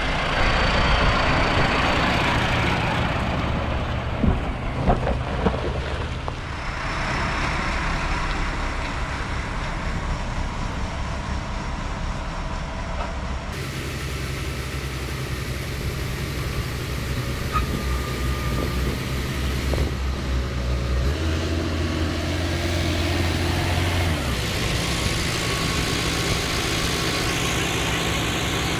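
Massey Ferguson tractor's diesel engine running while buckraking silage, its note rising and falling with the load. There are a few knocks about five seconds in, and the engine pitch changes a couple of times near the end.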